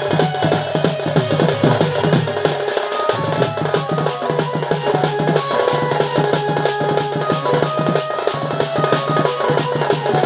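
Live danda nacha folk music: fast, dense drumming with a held melody line over a steady low drone.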